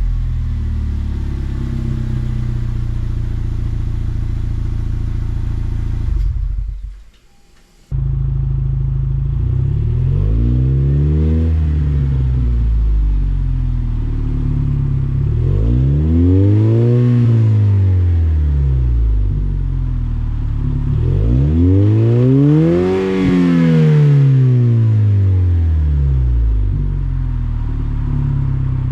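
Lexus IS200t's 2.0-litre turbo four-cylinder running through an axle-back muffler-delete exhaust: first a steady drone, then, after a short break, three swells where the exhaust note climbs in pitch and falls away again.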